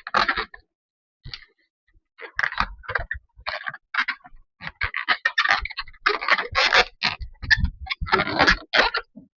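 A rubber balloon being handled and rubbed: a run of irregular scraping and rubbing noises that grows busier after the first couple of seconds.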